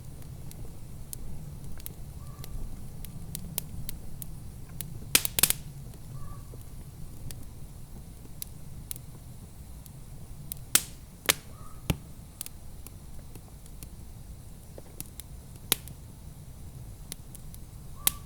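Wood fire in a fireplace crackling, with scattered sharp pops, a loud cluster of them about five seconds in, over a low steady rumble.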